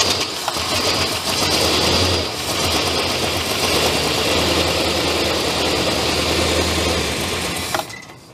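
1969 Dodge Charger's V8, just brought back after years of sitting, running after being cranked. It is a little rattly because oil pressure has not yet built up. It cuts out near the end.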